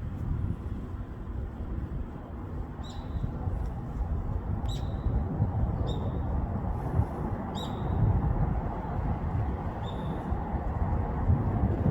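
A bird's short, sharp calls, each falling quickly in pitch, heard about five times a second or two apart, over a steady low rumble of city noise.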